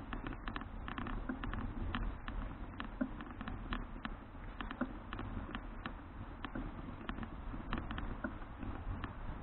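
Irregular light clicks and rattles from a folding bicycle being ridden, a few a second, over a steady low rumble of wind and tyres.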